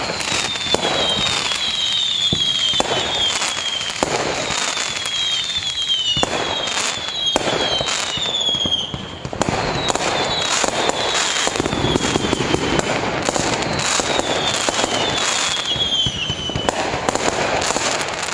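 Fireworks display: a steady run of bangs and crackling bursts, with short whistles that fall in pitch coming again and again through most of it.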